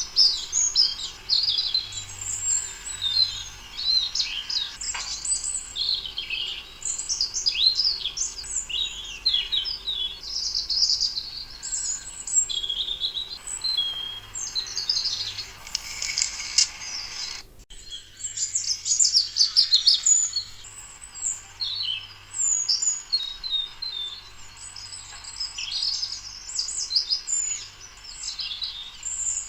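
Songbirds chirping and singing, many short, rapid, overlapping calls and trills, with a brief sudden break about seventeen seconds in.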